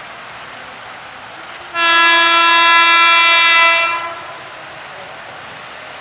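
An electric commuter train's horn gives one loud, steady blast of about two seconds, starting near the second mark, over the constant hiss of heavy rain.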